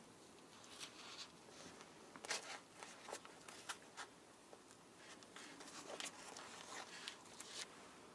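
Faint scattered handling sounds: light scratching, rustling and small clicks, strongest around two and a half seconds in and again near six seconds.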